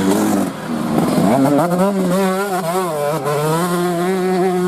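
Off-road racing motorcycle engine revving; its pitch climbs about a second in, then rises and falls as the throttle is worked.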